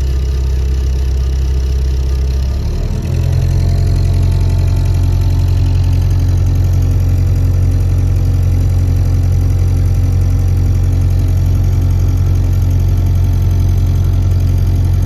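A boat's engine running steadily under way, given more throttle about three seconds in, where its note steps up and then holds at the higher speed.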